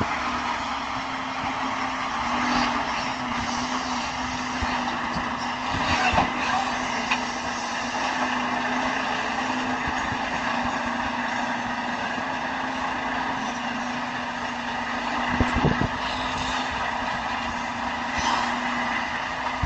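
Motor vehicle running steadily, a continuous rumble with a steady hum, with brief knocks about six seconds in and again near fifteen seconds.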